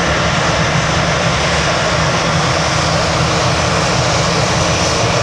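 Jet airliner engines running loud and steady, a dense even roar with no breaks.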